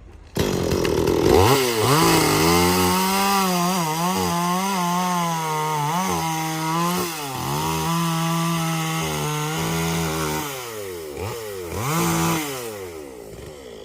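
Two-stroke chainsaw running at a high, steady pitch, starting suddenly just after the start and dipping in pitch several times as it cuts into wood. It grows quieter near the end.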